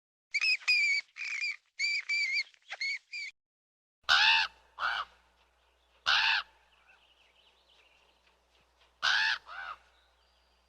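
Crow cawing: loud harsh caws one to three seconds apart, some in pairs with the second one softer, over a faint low hum. This is preceded by a separate quick string of short high-pitched squawks lasting about three seconds.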